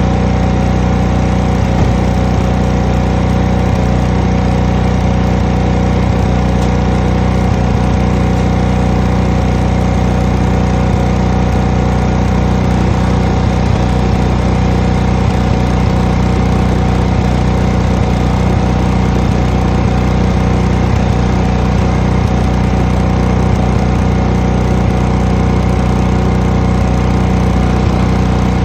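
High-pressure washer running steadily during exterior wall washing: a constant engine hum under a broad hiss, unchanging throughout.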